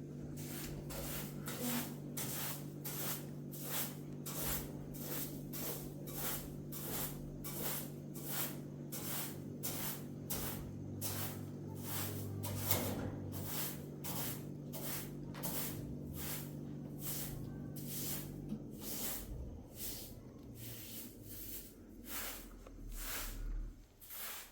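Rhythmic hissing strokes, about two a second, like spraying or brushing, over a steady low hum that stops about three quarters of the way through.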